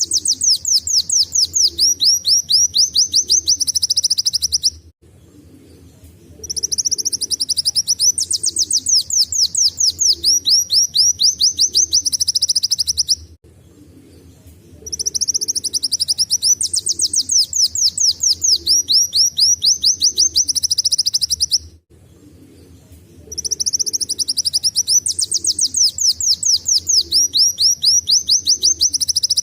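Kolibri wulung, a sunbird, singing a canary-like song in high, rapid trilled phrases, each holding a run of quick downward-sweeping notes. The phrases last about five to seven seconds, with short pauses between them, four times over. A faint low hum sits underneath.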